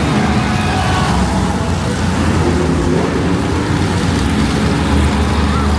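Monster truck engines running loud and steady, a deep drone.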